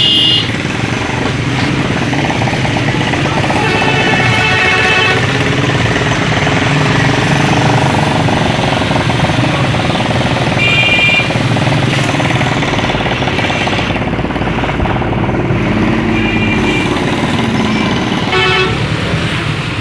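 Road traffic: steady noise of passing vehicles, with short horn honks several times.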